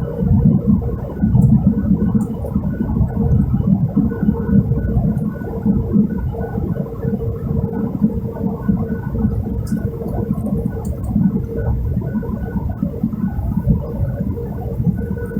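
Jet airliner cabin noise: a steady low rumble of engines and airflow with a constant whine running through it, a little louder in the first couple of seconds.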